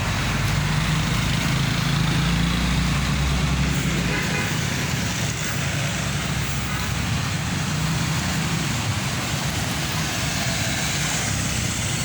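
Hino 500 truck's diesel engine running steadily, with road noise; its deepest note drops away about four seconds in.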